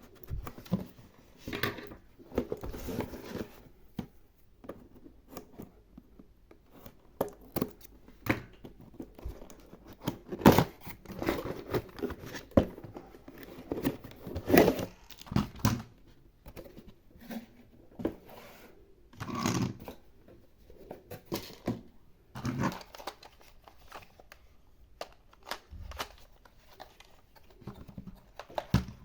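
Hands handling plastic toy packaging: irregular crinkling and tearing, with sharp clicks and taps.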